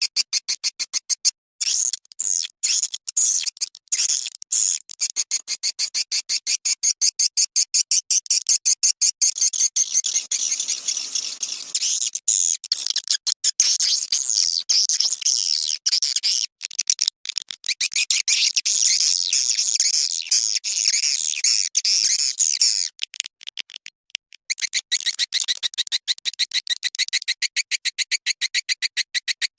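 Swiftlet calling-sound recording: dense, rapid, high-pitched twittering chirps, many per second, from a looped lure track of the kind played to draw swiftlets into a nest house.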